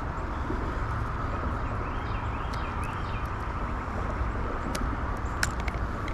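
Steady outdoor background noise with a low rumble, a short high chirping call repeating over it, and a couple of sharp clicks near the end.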